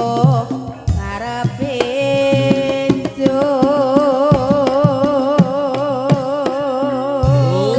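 Javanese gamelan music for ebeg, with frequent drum strokes and deep gong-like hits. A singer's ornamented line settles about three seconds in on a long held note with a wide vibrato.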